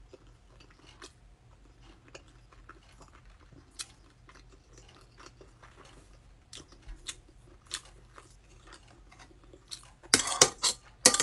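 Quiet chewing with small mouth clicks, then about ten seconds in a metal spoon clinks and scrapes against a plate several times, much louder than the chewing.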